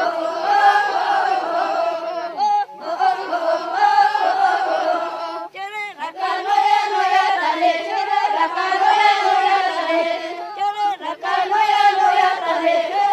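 A group of voices singing a chant together, holding steady, swaying notes. Brief wavering, sliding high cries break in a few times.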